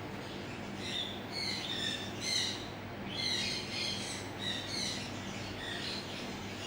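Many caged birds chirping at once, a string of short high calls overlapping throughout, over a steady low hum.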